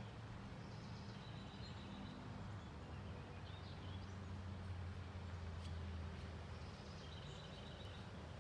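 Faint outdoor ambience: a steady low hum under light noise, with short bird calls, each a quick run of chirps, about half a second in and again near the end.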